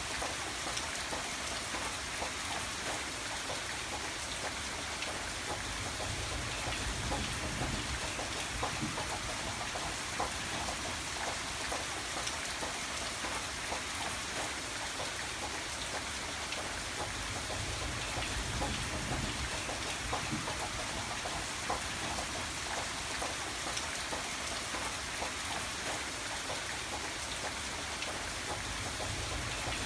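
Steady rain ambience: an even hiss of rainfall dotted with frequent small ticks of drops and fire crackle, over a low rumble that swells and fades every ten seconds or so. It is a mixed sleep track of rain and a crackling fireplace.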